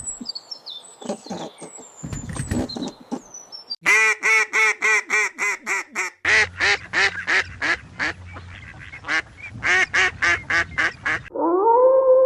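Small birds chirping with short falling whistles, then a duck quacking in rapid series of calls, about five a second, for several seconds. A steady held tone with a slight wobble starts near the end.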